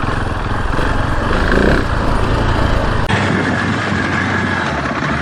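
KTM 690 Enduro R's big single-cylinder engine running at low revs as the bike rides down a rough trail. The sound changes abruptly about three seconds in.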